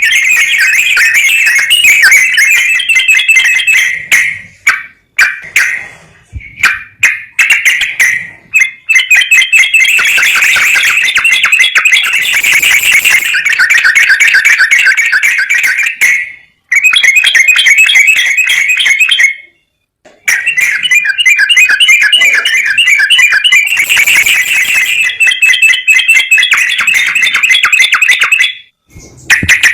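Songbird singing in fast, high-pitched chattering trills and warbles, dense and nearly continuous, broken by a few brief pauses. It is a stimulus recording played to coax a quiet trucukan (sooty-headed bulbul) into song.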